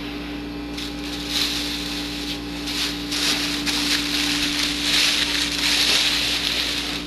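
Irregular rustling and crunching noises over a steady electrical hum, the rustling starting about a second in and getting louder toward the end.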